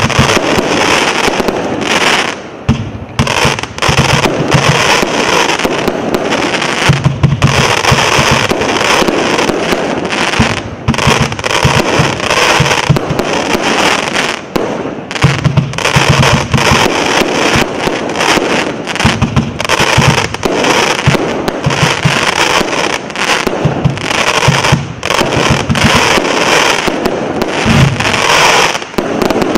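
Absolute Fireworks Claymore 100-shot barrage cake firing: a rapid, near-unbroken stream of shots launching and bursting, with only a few brief lulls.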